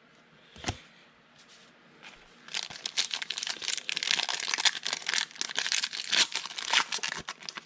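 Foil wrapper of a trading-card pack being torn open and crinkled, a dense run of crackling starting about two and a half seconds in after a single click.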